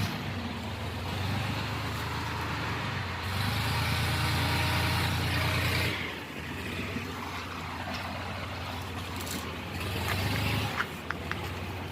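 A heavy vehicle's engine runs with a low drone. It grows louder for a few seconds in the middle, drops off, then swells again near the end, followed by a few sharp clicks.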